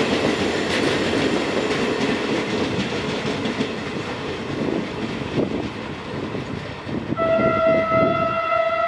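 Italian regional train with an FS E464 electric locomotive pulling away, its wheels rumbling and clattering over the rail joints. About seven seconds in, a long steady single-tone train horn starts and holds.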